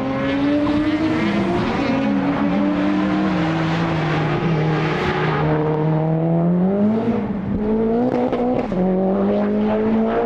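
Modified time attack race car engine at high revs on the circuit. Its pitch climbs, drops sharply at gear changes about a second and a half in and again later, then climbs once more.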